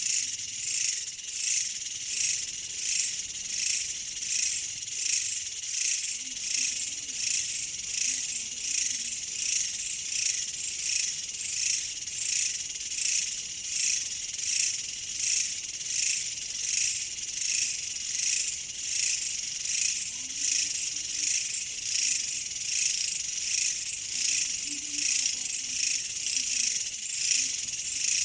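Insect chorus of high, shrill chirring that swells and fades evenly, about one and a half pulses a second.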